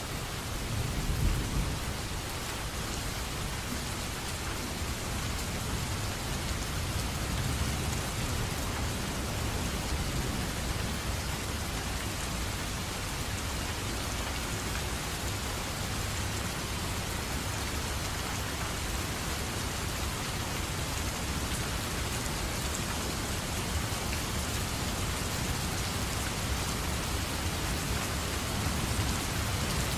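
Steady rain, with a brief low rumble of thunder about a second in.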